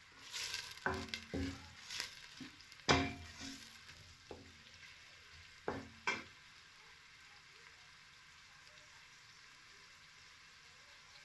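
Chopped onions frying in hot oil in a metal pot. A spoon stirs them and clanks against the pot several times in the first six seconds, then a faint steady sizzle carries on.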